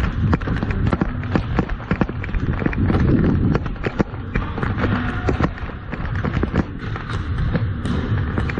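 Ball hockey play heard up close: a dense, irregular run of sharp clacks from sticks and ball on the plastic dek surface, over players' running footsteps.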